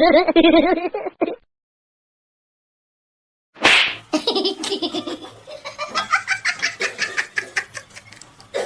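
Voices in a short pet-video clip: a wavering vocal sound, a cut to silence, then laughter in quick repeated bursts.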